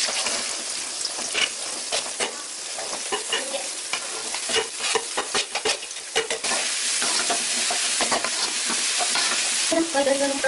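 Onions and green chillies sizzling in hot oil in a metal kadai as chopped beans, carrots and cabbage are tipped and scraped in from a steel plate, with many short clinks and scrapes of metal against the pan over the steady sizzle.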